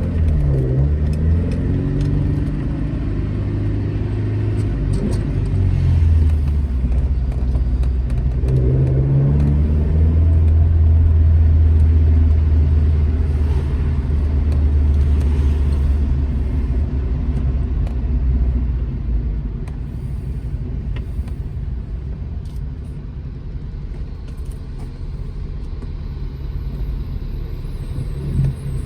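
Alfa Romeo GT Junior's twin-cam four-cylinder engine under way. The revs change twice in the first ten seconds, then it pulls steadily for about eight seconds. Near twenty seconds in, the engine note drops away to quieter running as the driver eases off.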